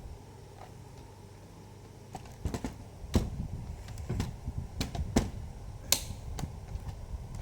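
Scattered sharp plastic clicks and taps from handling a laptop as someone tries to switch it on, starting about two seconds in and coming at irregular intervals.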